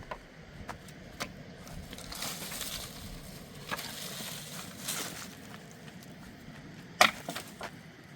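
Crunching and rustling with scattered clicks and a single sharp knock about seven seconds in.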